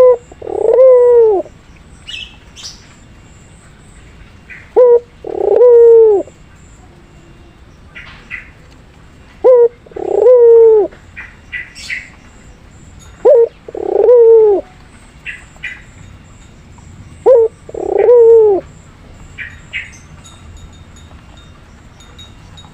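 Puter pelung dove cooing in a steady, repeated phrase: a short note followed at once by a longer, falling coo, five times, about every four seconds. Faint high chirps come between the coos.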